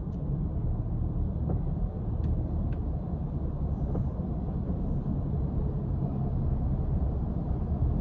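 Steady low rumble heard from inside a car in a car wash, with a few faint clicks.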